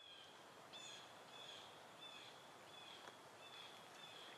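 Faint bird chirping: one short high chirp repeated about every 0.7 s, over a faint steady hiss.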